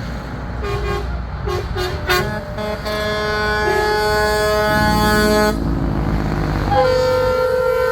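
Semi-truck air horns sounding over the rumble of passing truck engines: a few short toots in the first two seconds, then a long blast of about three seconds, then another long blast that starts near the end.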